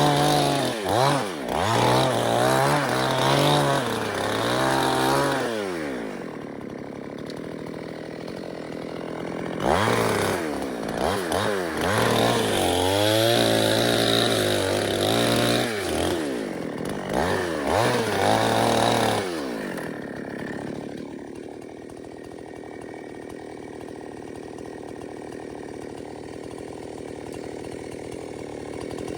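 Two-stroke chainsaw revving hard with its pitch dipping and rising, in two bouts about five and ten seconds long. After each bout it drops back to a steady idle.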